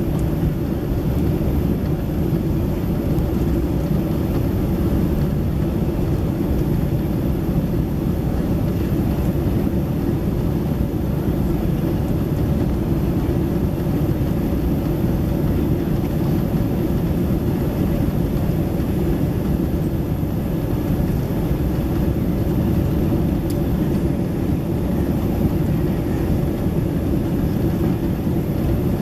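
Steady low rumble of cabin noise inside a Boeing 767-300ER airliner: engine and airflow noise heard from a passenger seat, holding level throughout.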